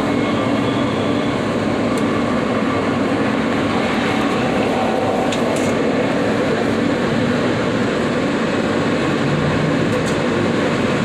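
New York City Subway F train running between stations, heard from inside the car: a steady rumble and rail noise with a few faint clicks from the track.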